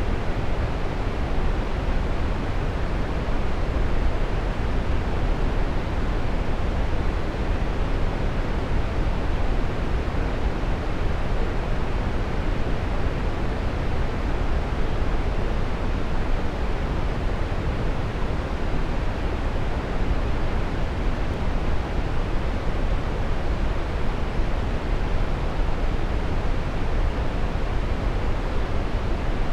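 Waterfall rushing steadily, a dense, even roar of falling water with most of its weight in the lows.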